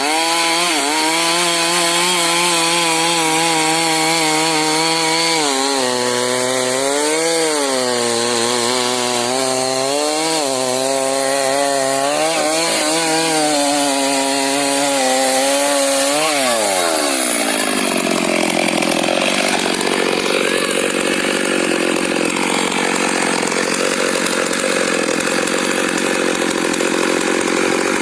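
Stihl MS 382 two-stroke chainsaw running at high revs while cutting wood, its pitch dipping and recovering several times as the chain bogs under load. About 17 seconds in the engine speed falls, and a lower, rougher running sound continues.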